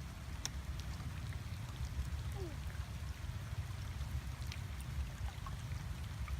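Water dripping and trickling in small scattered ticks over a low steady rumble.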